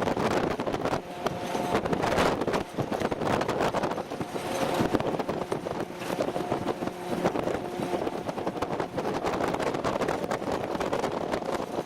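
Military convoy vehicle running on the road: steady, loud engine and road noise, with short whining tones coming and going twice.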